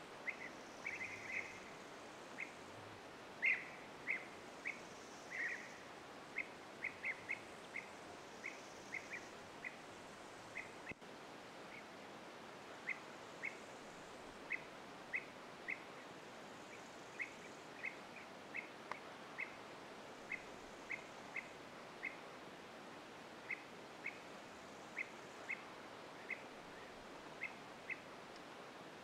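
A bird giving short, sharp chirps, irregularly spaced at about one or two a second, over a faint steady outdoor hiss.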